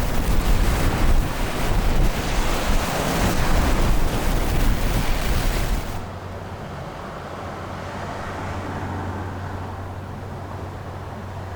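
Strong gale-force wind buffeting the microphone, loud with heavy low rumble. About six seconds in it cuts off suddenly to a quieter steady background with a constant low hum.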